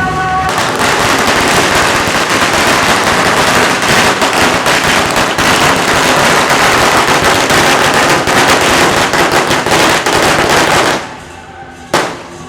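A long string of firecrackers going off in a dense, rapid crackle that stops abruptly about eleven seconds in, followed by one last loud bang about a second later.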